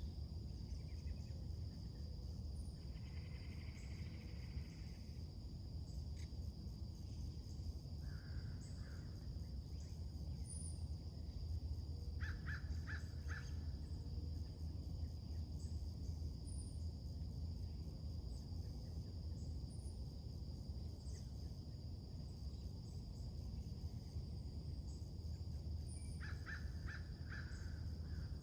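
Morning birdsong outdoors: small birds chirping faintly, with two short bouts of rapid harsh calls, about twelve seconds in and again near the end. Under them runs a steady high-pitched drone and a low rumble.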